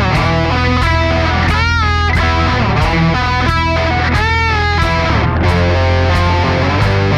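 Instrumental rock music: a distorted electric guitar plays a lead with notes bent up and back down twice, over a steady bass line and a drum beat.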